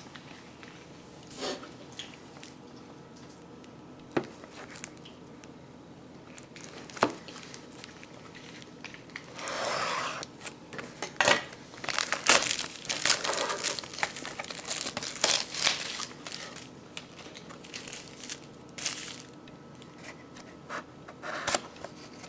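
Packaging being opened by hand: a few separate clicks and taps, then from about nine seconds in a long run of crinkling and tearing of wrapping.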